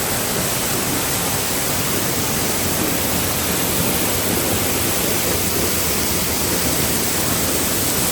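Middle North Falls, a forceful waterfall, pouring: a loud, steady rush of falling water.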